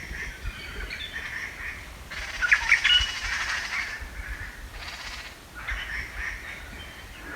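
Forest birds chirping and calling throughout. About two seconds in comes a louder rushing noise lasting roughly two seconds, with sharp calls inside it, and a shorter one follows a little later.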